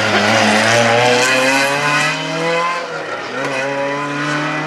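Classic rally car's engine accelerating hard, its pitch climbing, with a gear change about three seconds in before it climbs again.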